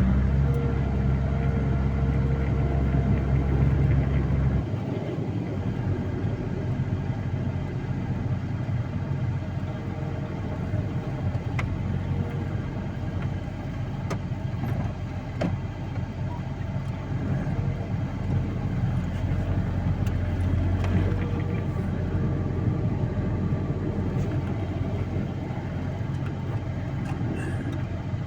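Vehicle engine running under load for the first few seconds, then dropping back to a lower, steady run.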